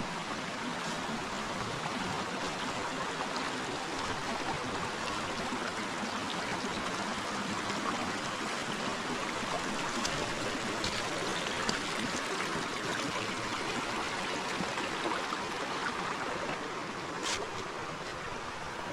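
River water running steadily over stones, a continuous rushing with light gurgling, with a few faint ticks, one a little sharper near the end.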